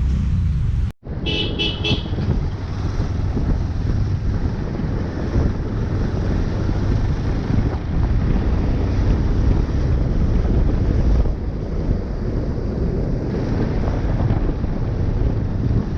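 Wind rumbling on the microphone and road traffic noise while riding a motorcycle. A vehicle horn toots three short times about a second in.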